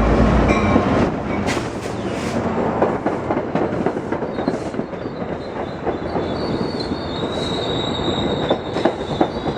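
Passenger train passing close by: a deep locomotive engine hum fades about half a second in, leaving the steady rush of the cars with wheels clicking over rail joints. A high-pitched wheel squeal builds near the end.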